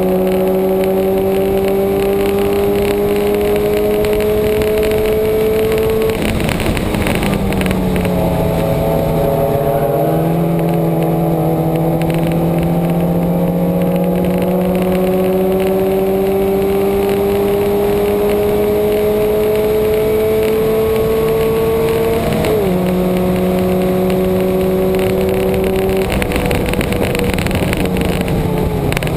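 Subaru flat-four engine held at high revs on track, heard onboard. The pitch climbs slowly through long pulls in gear and drops about six seconds in and again near the end as the car comes off the throttle. Steady wind and road noise run underneath.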